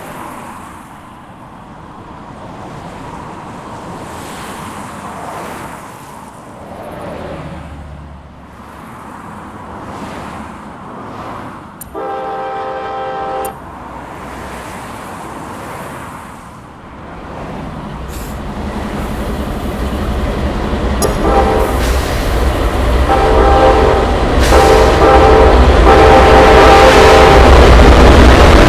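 Freight locomotive's air horn sounding one blast about twelve seconds in, then the train approaching with a low rumble that grows steadily louder, the horn sounding again in several blasts in the latter half.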